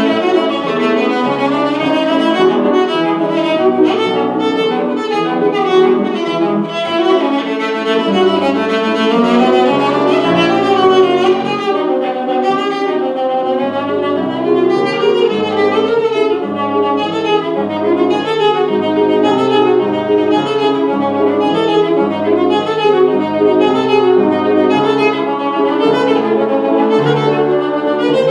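Solo violin playing a classical piece with piano accompaniment, many quick notes over a stepping bass line.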